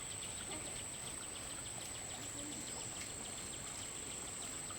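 Outdoor ambience of insects: a steady high thin buzz with a fast, regular chirping of about eight pulses a second underneath it.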